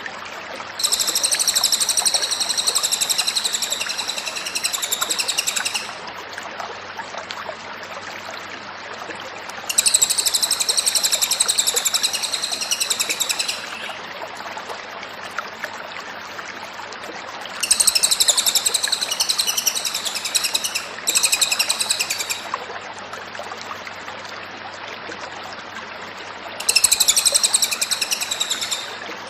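Cililin songbird singing in four long bouts of fast, high, wavering chatter separated by pauses of a few seconds, over a steady background hiss.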